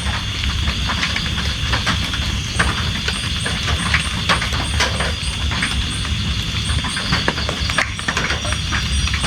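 Steady rain with a low rumble beneath, and heavy drops tapping irregularly on a nearby surface several times a second.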